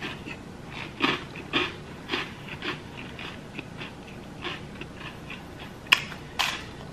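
Toast being chewed with the mouth close by, a crunch about twice a second, then two sharper crunches near the end as a fresh bite is taken from the slice.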